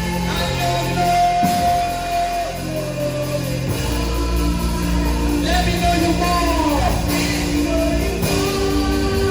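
Slow gospel worship music: sustained chords over a steady bass, with a singer's drawn-out, wordless held notes.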